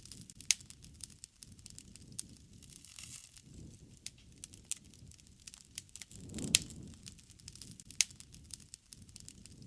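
Wood campfire crackling with frequent sharp pops and snaps over a low, soft rush of flame. The rush swells with a loud pop about six and a half seconds in.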